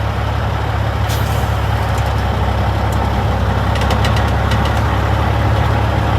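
Peterbilt 379's Caterpillar C15 ACERT diesel running steadily at low idle while the truck creeps in reverse, heard through the open driver's door. A brief hiss about a second in and a few light clicks around four seconds.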